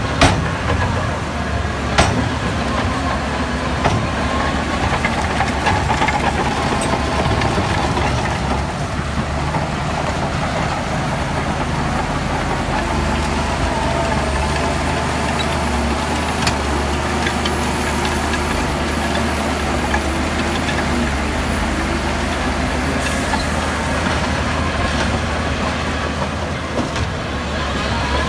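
Heavy diesel earthmoving machinery running steadily under load, a deep engine drone with faint metallic squealing and a few sharp clanks.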